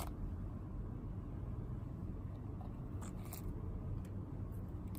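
Slime being handled, giving a few soft clicks and crackles, one at the start and two about three seconds in, over a steady low hum.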